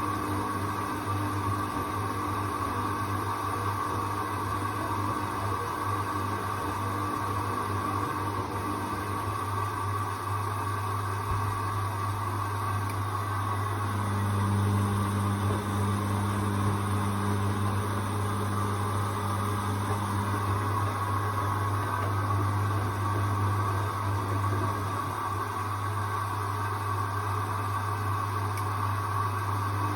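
Hoover washing machine running mid-cycle on its 14-minute quick wash, with the drum motor turning. There is a steady low hum under a motor tone that stops and starts several times, a little louder for a few seconds in the middle.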